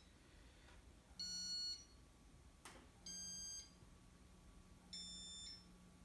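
Casablanca ceiling fan control beeping as speed settings are pressed: three short, high-pitched beeps about two seconds apart, with a faint low hum under the later ones. The fan will not run on most speeds because its bearings are badly worn.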